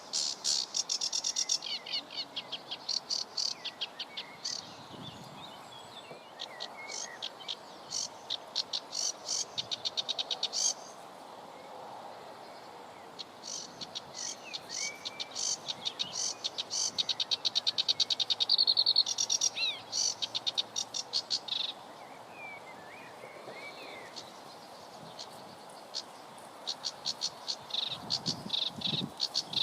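Animal calls outdoors: several long runs of fast, high clicking notes, about five a second and each lasting several seconds, with short bird chirps in between.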